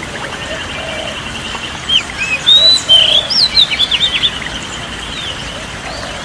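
Songbirds singing: a fast, even trill runs throughout, and about two seconds in a louder bird breaks into a burst of varied whistled notes lasting about two seconds.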